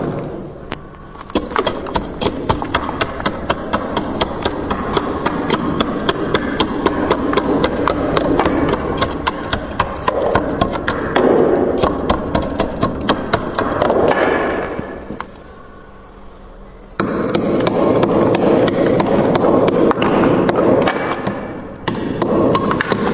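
Freezer frost ice being scraped and crunched: rapid sharp clicks and crunches over a grainy rasp, with a brief pause about a second in and a quieter pause of about two seconds past the middle.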